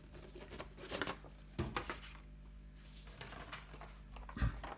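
Scattered light clicks and rustles of small objects being handled, a few separate knocks with quiet between them.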